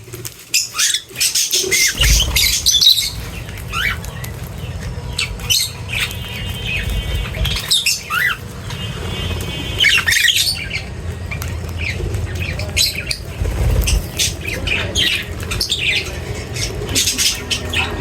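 A flock of birds squawking and chirping, many short overlapping calls with a few harsh buzzy ones, over a steady low rumble.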